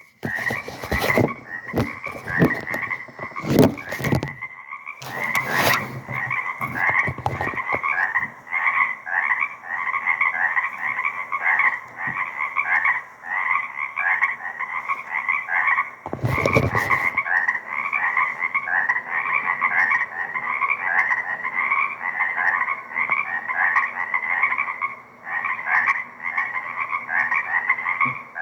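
A wetland frog chorus in full spring song: many frogs calling over and over without a break, picked up through a directional shotgun microphone. Several sharp knocks sound in the first few seconds and once more about halfway through.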